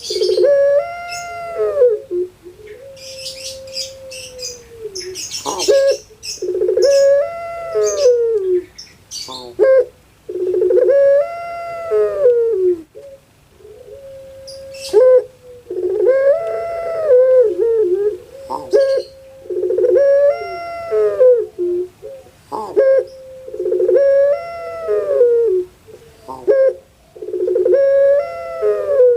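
Puter pelung (a Javanese ringneck dove breed, Streptopelia risoria) cooing over and over. Each call is a held low note that swells up in pitch and falls away, about every two seconds.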